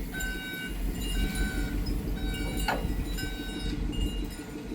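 Small metal bells or chimes ringing on and off at several pitches, each note short and clear, with one sharp knock about two and a half seconds in, over a steady low rumble.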